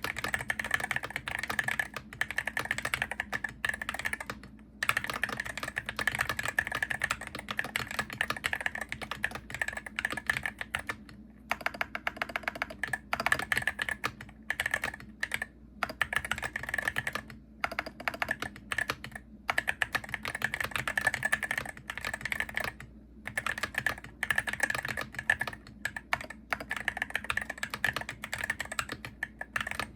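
Keys being typed on a Hero68HE gaming keyboard: a fast, steady stream of key clicks, broken by a few short pauses.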